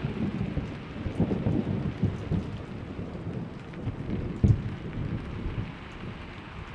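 Thunderstorm: steady rain with rolling thunder rumbling low, one louder crack of thunder about four and a half seconds in, then the rumble fading away.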